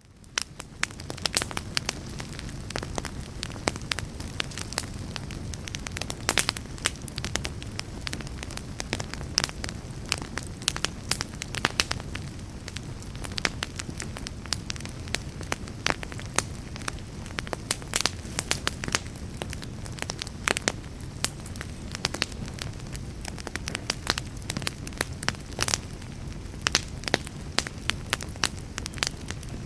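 Wood fire burning, a steady low rush of flames with frequent sharp pops and crackles, fading in over the first second.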